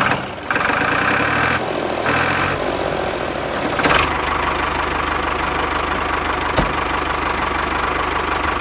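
An engine running steadily with a fine, even pulse. There is some added higher noise during the first couple of seconds and a brief change about four seconds in.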